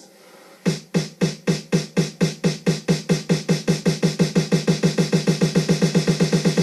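Electronic music: a single synthesized drum hit repeated over and over, each hit falling in pitch, starting about a second in and speeding up steadily into a fast roll.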